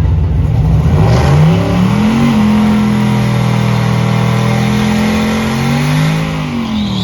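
A car's V8 engine rising in pitch as it is revved or accelerated hard, holding a steady high note for several seconds, then dropping back near the end.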